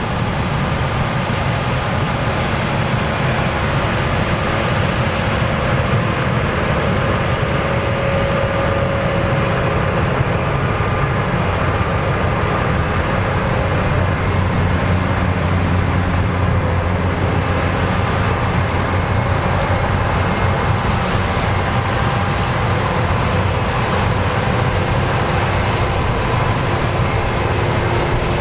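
Combine harvester running steadily while harvesting corn, a loud, constant machine noise with a low hum.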